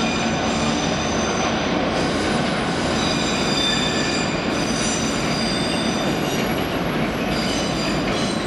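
A train moving through the station with a steady rumble, over which several high squealing tones from the wheels come and go.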